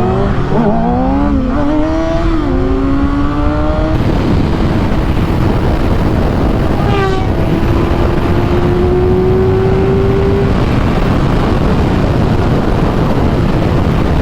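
600cc inline-four sport bike accelerating hard through the gears, its engine note climbing and dropping back with quick upshifts. It then runs at speed under heavy wind rush on the microphone, with another shift about seven seconds in and the engine note creeping up before it fades into the wind noise.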